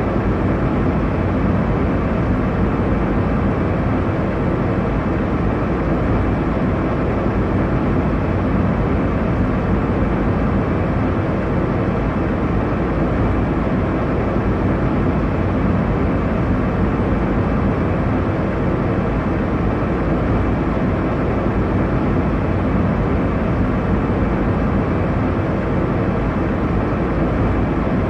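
Airliner cabin noise in flight: a steady low rush of engine and airflow noise, unchanging throughout.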